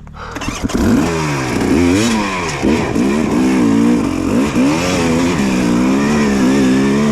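Dirt bike engine revved up and down several times, its pitch rising and falling, then held at a fairly steady speed near the end.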